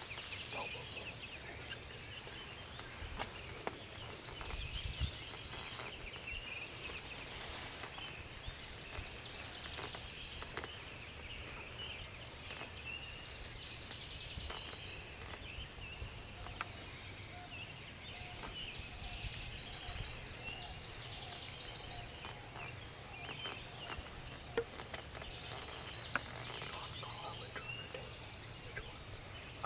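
Songbirds singing in short, varied phrases over a low outdoor background, with a brief rustling noise about seven seconds in.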